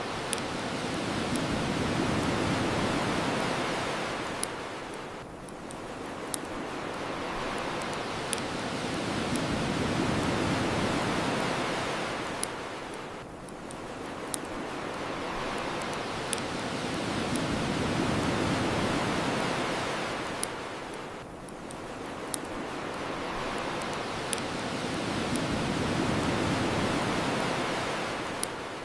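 Ocean waves washing onto a shore in slow, even surges about every eight seconds, four in all, with the sparse sharp pops of a crackling wood bonfire.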